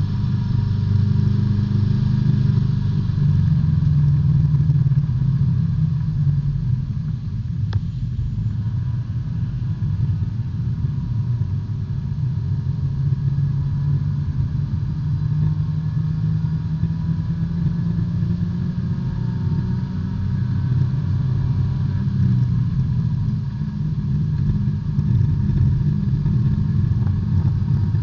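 B-Spec race car's small four-cylinder engine running steadily at fairly constant revs, heard from inside the cabin.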